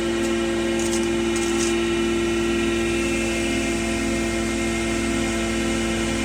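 Animal feed pulveriser machine running with a steady, even hum, with a few light ticks in the first two seconds.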